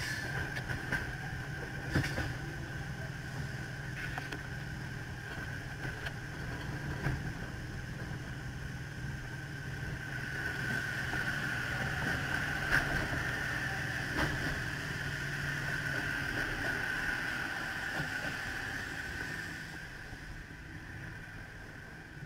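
Double-deck electric suburban train running, heard from inside the carriage: a steady rumble with a high steady whine and a few sharp clicks of the wheels over the track. It grows louder in the middle as another train passes alongside, then quietens near the end.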